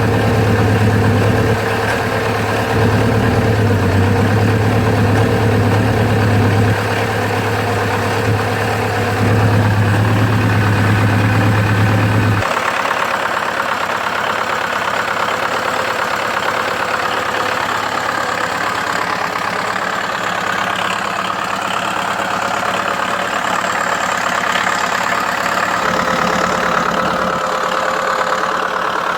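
MTZ Belarus 1025 tractor's four-cylinder diesel running in deep cold (−17 °C) after a cold start on starting fluid. About twelve seconds in the sound changes abruptly: the deep, heavy drone drops away and a lighter, higher-pitched running sound carries on.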